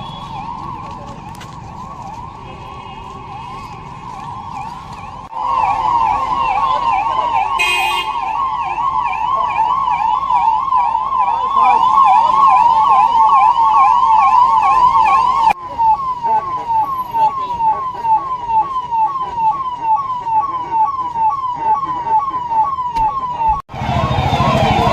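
Electronic emergency-vehicle siren sounding in a fast warble. It grows much louder about five seconds in, and about two-thirds of the way through it changes to a slower pattern of falling sweeps, about two a second, before cutting off abruptly near the end.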